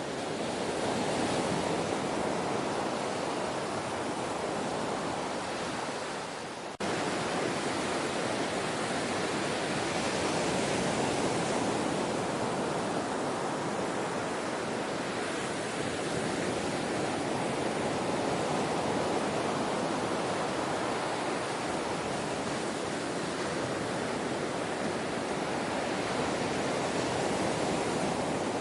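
Gentle ocean waves washing on the shore as a steady surf wash, swelling and easing slightly, with a brief drop and a sudden return in level about seven seconds in.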